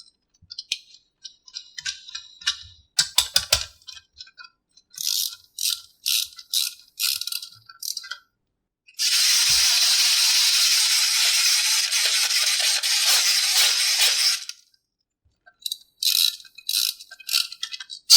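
Short clicks and rattles, then a steady rattling hiss lasting about five seconds in the middle, then more short clicks.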